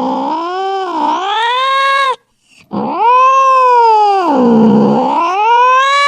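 Angry cat caterwauling: two long, drawn-out yowls whose pitch sinks and then rises again, with a short break about two seconds in.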